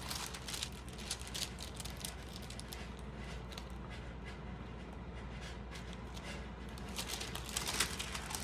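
Light handling of stamp album pages: soft rustling with small ticks and crinkles, growing busier and louder near the end, over a steady low hum.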